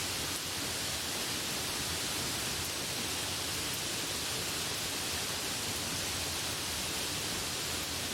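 Steady rain: an even, unbroken hiss with no distinct drops or thunder.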